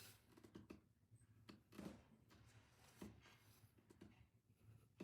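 Near silence: quiet room tone with a few faint, brief knocks.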